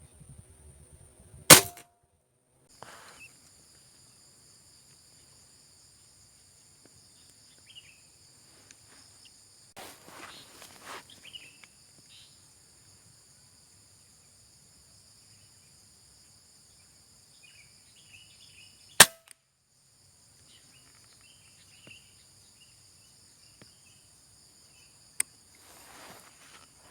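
Two sharp gunshots from a hunting gun, one about a second and a half in and the other some seventeen seconds later, with a fainter crack near the end. Insects drone steadily and high-pitched throughout.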